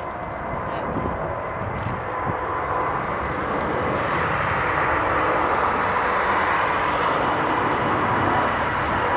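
Airbus A380's four jet engines at takeoff power: a steady roar with a few held tones, growing steadily louder as the aircraft comes nearer.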